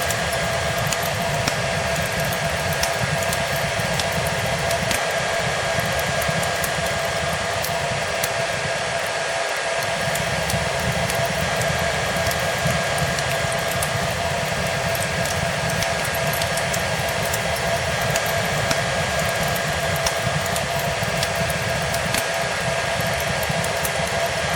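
Hair dryer running steadily: an even rushing of air with a constant motor whine. It is layered with the small, scattered pops and crackles of a fireplace.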